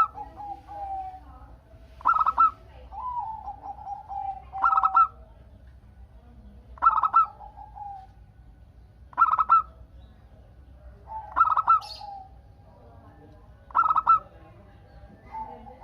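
Zebra dove (perkutut) cooing in the singing rhythm prized in these birds. A short, loud cluster of rapid staccato coo notes comes about every two seconds, about six times, with lower drawn-out coos between them.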